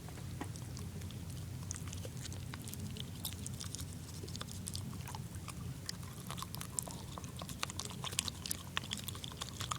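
Double Bubble bubble gum being chewed: irregular wet smacking clicks of the mouth, getting more frequent after about six seconds in, over a steady low hum.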